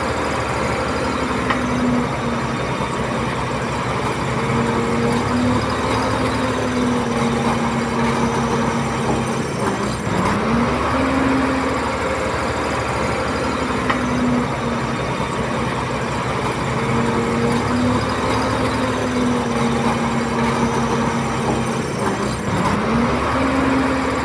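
Komatsu D31P bulldozer's diesel engine working steadily under load, its pitch dropping and then climbing back up about ten seconds in and again near the end as the load changes.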